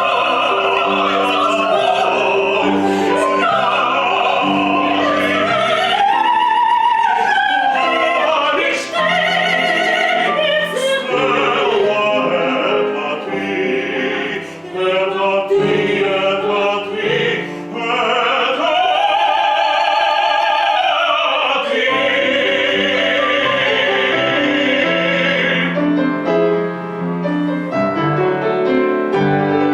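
Operetta duet: a soprano and a male singer in operatic style with piano accompaniment. The voices rise to a long held note and drop away a few seconds before the end, leaving the piano playing alone.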